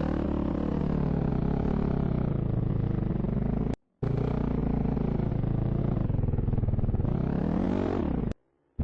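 Dirt bike engine running under throttle, its pitch rising and falling as it revs, climbing near the end. The sound cuts out abruptly for a moment about four seconds in and again near the end.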